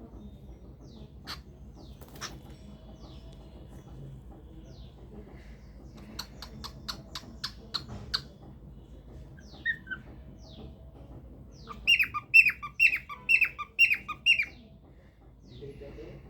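Cockatiel vocalising: scattered short chirps, a quick run of sharp clicks, then a loud burst of repeated falling whistled notes near the end.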